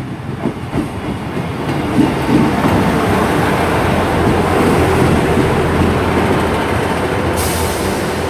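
Class 158 diesel multiple unit drawing into the platform, its underfloor diesel engines and wheels on the rails growing louder as the coaches come alongside. A sharp hiss of air starts about seven seconds in.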